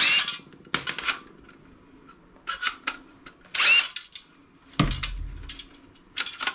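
Metal computer parts and screws clattering and clinking as they are handled and set down, with a ringing metal clink about halfway through and a dull thump about five seconds in.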